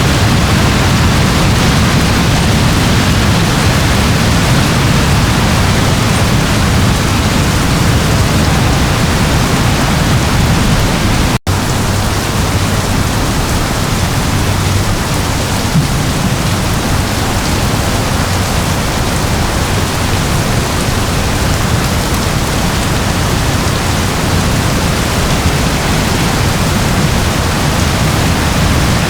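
Steady rain, an even hiss of falling rain with its weight in the low end, unbroken except for a split-second gap about eleven seconds in.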